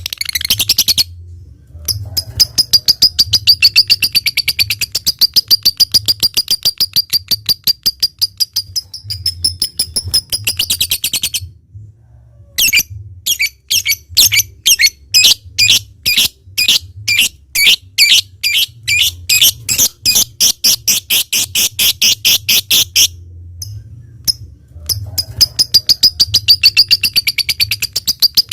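Lovebird singing long, rapid chattering trills of fast repeated high chirps, in three long bouts with short breaks between them.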